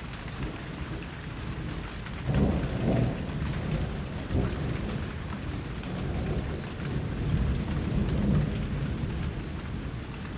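Steady heavy rain hissing on surfaces, with low rumbles of thunder swelling about two seconds in and again near the end.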